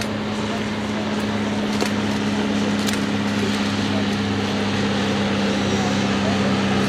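Piper Pawnee tug's piston engine and propeller droning steadily on a low run past the crowd. It grows slightly louder and drops a little in pitch near the end.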